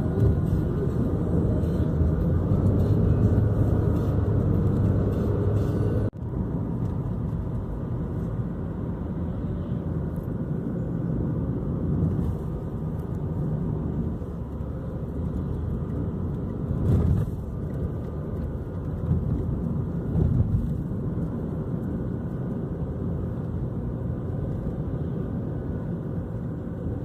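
Car driving on the road: steady engine and tyre rumble from inside the cabin, with a sudden brief break about six seconds in and a couple of louder bumps later on.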